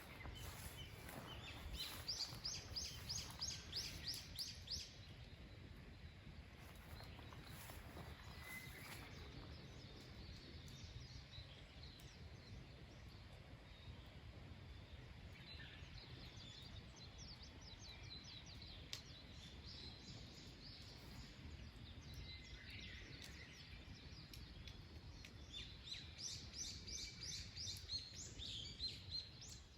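A bird singing quick trills of repeated high notes three times, near the start, in the middle and near the end, over faint steady low background noise.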